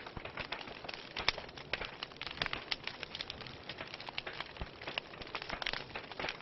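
Wood fire crackling in a fireplace: dense, irregular small pops and snaps from burning logs over a soft steady hiss, with a few sharper pops.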